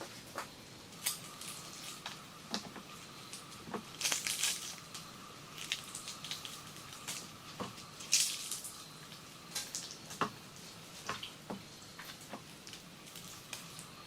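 Water dripping in irregular, scattered drops and taps, over a faint steady high tone that stops about two-thirds of the way through and returns near the end.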